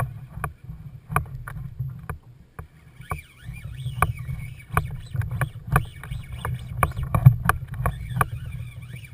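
Kayak on the water: water slapping against the hull and gear, with many irregular small knocks over a steady low rumble.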